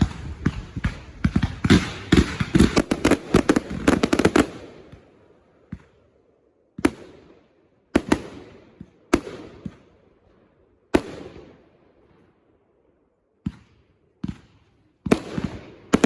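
Consumer fireworks going off: a rapid volley of bangs and crackle for the first four seconds or so, then single loud bangs every second or two, each trailing off in a short echo, with a few coming closer together near the end.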